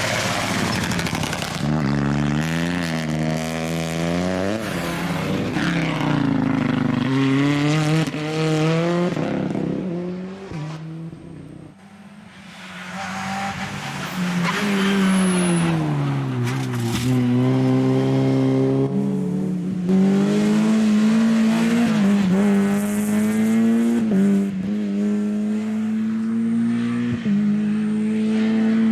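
Rally car engines at full throttle on a stage, climbing in pitch and dropping back at each gearshift. The sound fades briefly about twelve seconds in. Then an engine comes back, slows as if braking, and accelerates up through the gears again.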